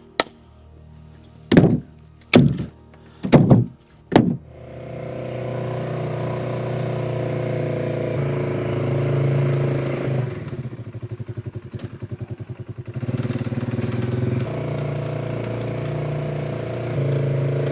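Several sharp knocks in the first four seconds, like a shovel chopping at packed snow. Then an engine runs steadily, its note shifting up and down every few seconds as it works the snow.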